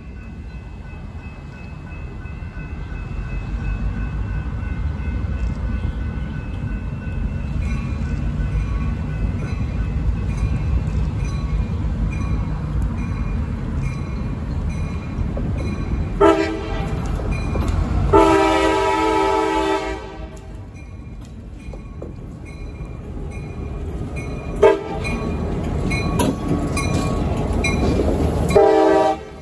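Freight train's diesel locomotives rumbling as they approach and pass close by. The air horn sounds several times: a brief blast about 16 seconds in, a long blast lasting about two seconds, then short blasts and a final one near the end.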